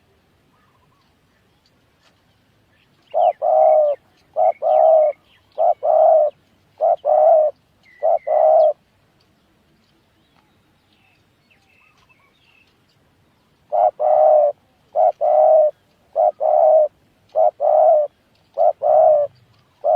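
Spotted dove cooing: two runs of five or six paired coos each, a short note followed by a longer one, repeated at an even pace with a pause of a few seconds between the runs.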